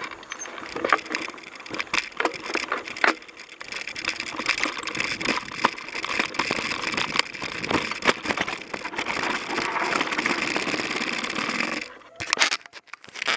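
Mountain bike rolling over a rough dirt trail: tyres crunching over twigs and debris, with frequent clicks and knocks of the bike rattling. The noise stops abruptly near the end, followed by a few single clicks.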